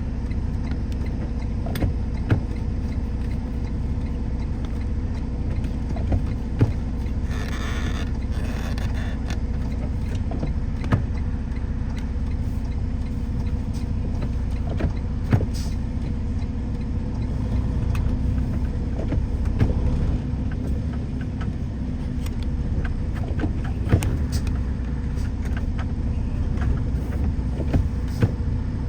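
Car driving at a steady pace: a constant low engine and road rumble, with scattered light clicks and knocks and a short hiss about eight seconds in.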